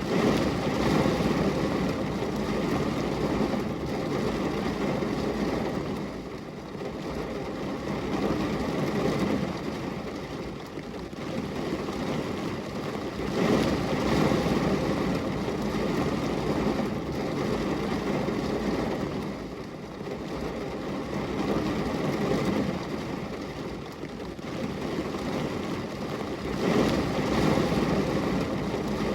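Steady rain pattering on a glass window, an even wash of noise that swells and eases every few seconds.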